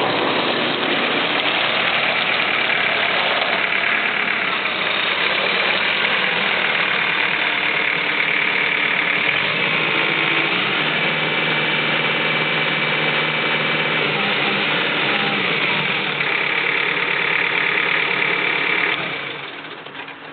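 Kubota M8200 tractor's diesel engine running steadily, its sound falling away sharply near the end.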